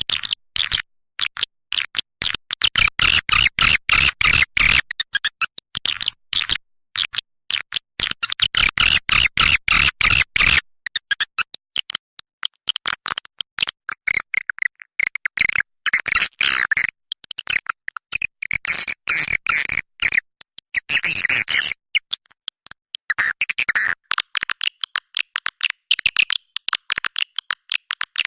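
Recorded swiftlet calls, a dense rapid chittering of chirps and clicks with a few short breaks: a lure call for drawing swiftlets to a nesting house.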